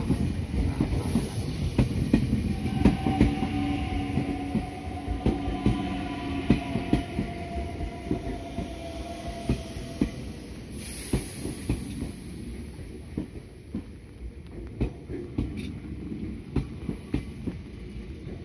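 Meitetsu 100 series electric train rolling slowly along a station platform: a rumble with wheels clicking over rail joints and a faint whine that falls slightly in pitch. The clicks grow sparser and the sound quieter toward the end.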